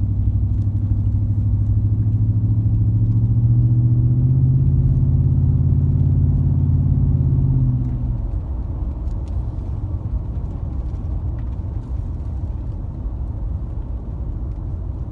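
2014 Ford F-150's 5.0-litre Coyote V8 running through a Roush cat-back exhaust, with a steady deep exhaust note. The note rises a little in pitch about four seconds in and holds, then falls back to a lower, rougher sound about eight seconds in.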